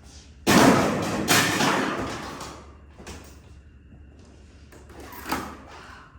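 Scrap parts stripped from a car being tossed into a pickup truck's bed: a loud clatter about half a second in that dies away over a second and a half, and a shorter knock about five seconds in.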